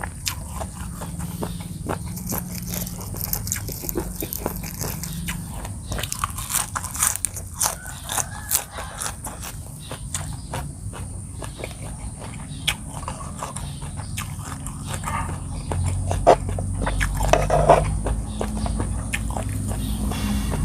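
Close-miked chewing and crunching of a Thai seafood tam salad with crab, chicken feet and raw vegetables: a constant run of wet mouth clicks and crunches, with a few louder crunches near the end. A steady high insect drone runs underneath.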